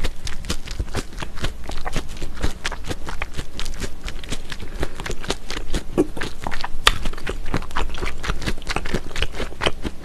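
Close-miked chewing of a mouthful of mulhoe: raw fish slices with crisp shredded vegetables and pear in a cold spicy broth. It comes through as a dense, steady run of wet crunches and clicks.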